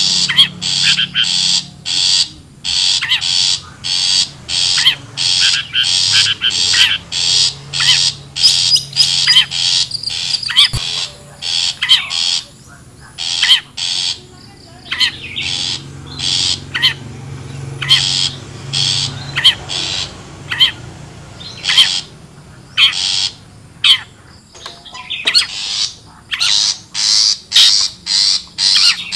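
Long-tailed shrike (cendet) giving harsh, rapid chattering calls, repeated in quick runs of several notes a second with a few short pauses. A steady low drone runs underneath.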